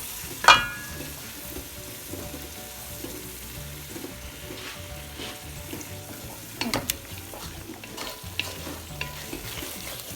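Onion-tomato-yogurt masala frying in a kadai with a steady low sizzle, while a spatula stirs and scrapes it. A ringing clank of the spatula against the pan about half a second in is the loudest sound, and a few more knocks follow near seven seconds.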